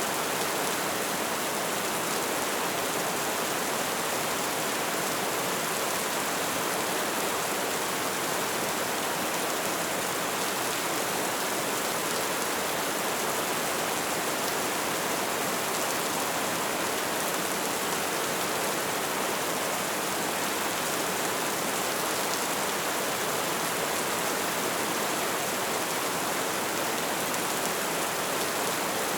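Light rain falling, a steady even hiss of many fine drops with no distinct patters standing out.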